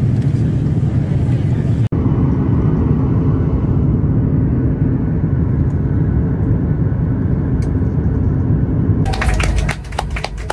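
Steady low rumble of a vehicle in motion, broken by a brief edit cut about two seconds in. Near the end it gives way to a quick run of sharp, evenly spaced clicks.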